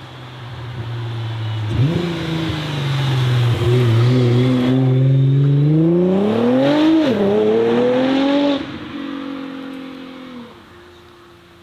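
A car's engine pulling away under hard acceleration: the note climbs for several seconds, dips sharply at a gear change about seven seconds in, climbs again, then the driver lifts off and the sound fades as the car moves away.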